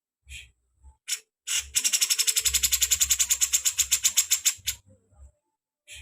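A bird giving a few short sharp notes, then a fast, harsh rattling call of about ten notes a second lasting roughly three seconds.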